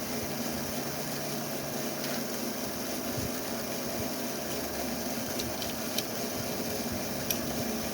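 Steady background hiss with a low hum, and a few light clicks about five to seven seconds in.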